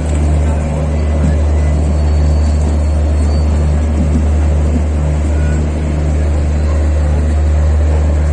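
Express train running at speed, heard from inside a passenger coach: a loud, steady low rumble with even wheel and track noise over it.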